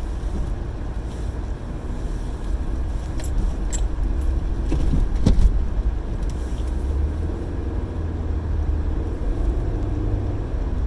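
Car cabin noise while driving: a steady low engine and road rumble, with a few short clicks and a knock about four to five seconds in.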